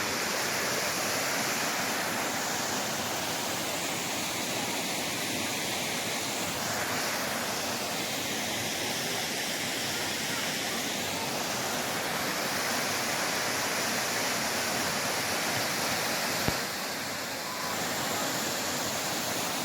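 Mountain valley stream rushing steadily, with a single sharp click late on.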